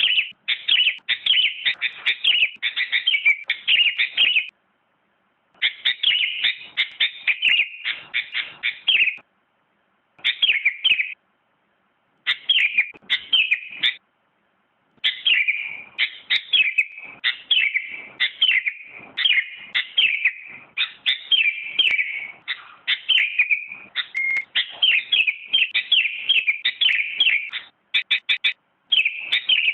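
Sooty-headed bulbul (kutilang) singing: fast runs of chirping notes in phrases a few seconds long, broken by short silent pauses.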